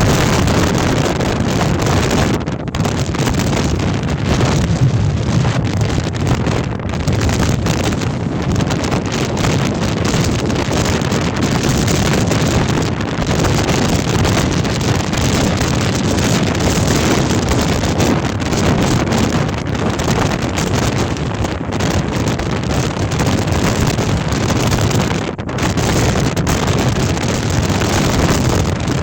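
Storm-force wind blowing hard and continuously, with heavy wind noise buffeting the microphone and the level swelling and dipping from gust to gust.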